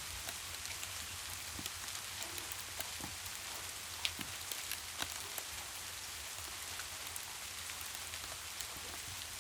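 Steady rain falling, an even hiss with scattered sharper drips and pops, a couple of louder ones about four and five seconds in.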